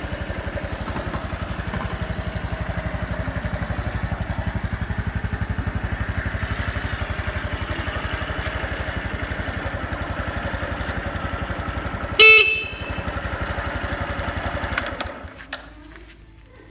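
Honda Super Cub 110 (JA07) fuel-injected single-cylinder four-stroke engine idling with an even beat and no abnormal noise. About twelve seconds in, the horn gives one short, loud beep. Near the end the engine stops.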